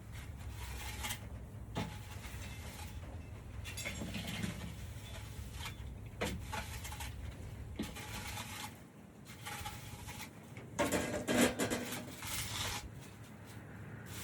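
Intermittent scraping and rustling of a pooper-scooper working over the ground, with a louder run of scraping near the end.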